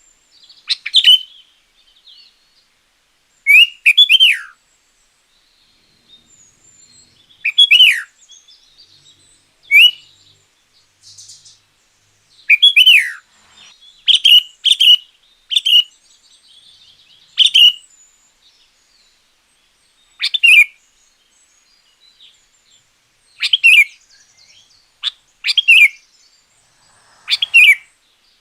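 Sooty-headed bulbul singing: short, loud phrases of a few notes, some falling in pitch, repeated every one to three seconds.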